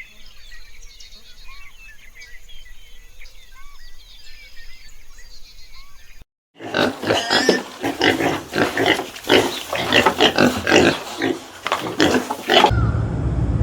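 Two animal clips in a row. First come faint, high chirping calls, repeated every second or two. About six seconds in, a cut leads to a loud, rapid run of rough grunting and squealing calls that lasts about six seconds.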